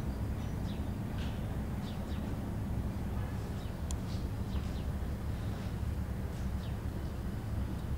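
Small birds chirping: scattered short, high, falling chirps over a steady low rumble.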